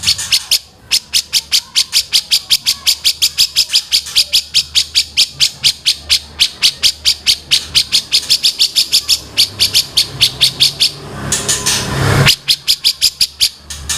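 Songbird calling in a long, rapid series of short, high repeated notes, about five a second. Near the end the notes give way to a louder, harsher noisy burst for about a second, then resume.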